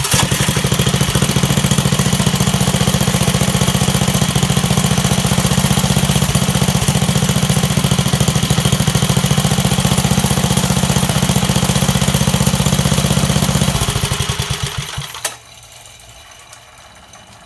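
1969 Bonanza mini bike's small engine starting on one pull, the mark of its freshly tuned carburetor, then running at a steady idle. About fourteen seconds in it is shut off and winds down to a stop, ending with a click.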